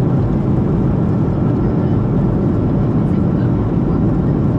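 Steady rushing cabin noise inside a Boeing 737-700 in flight: airflow and engine noise heard from a window seat as the airliner descends.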